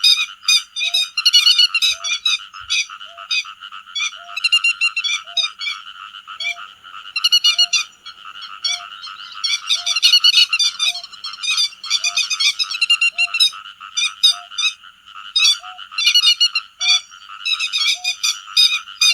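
Grey-headed lapwings calling to the flock in repeated bursts of sharp, high calls, over a steady background chorus and a short low note repeating about once a second.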